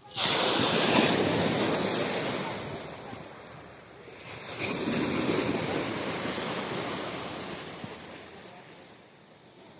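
Black Sea storm surf breaking on the shore: a wave crashes abruptly just after the start and washes up, fading over a few seconds, then a second wave breaks about four and a half seconds in and slowly recedes.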